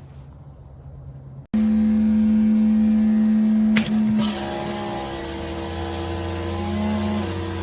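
Pressure washer running with a loud steady hum; a couple of seconds in there is a click and the rushing hiss of the water spray joins the motor sound and carries on.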